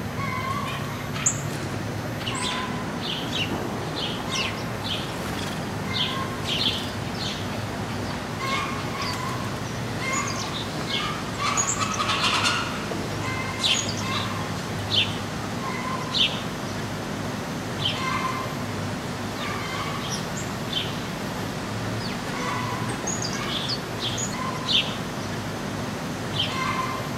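Small birds chirping: short, scattered calls with a denser flurry about twelve seconds in, over a steady low hum.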